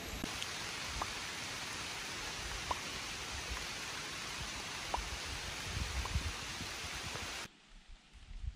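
Steady hiss of rain falling through the woods, with a few separate drop ticks. It cuts off suddenly near the end, leaving a much fainter hiss.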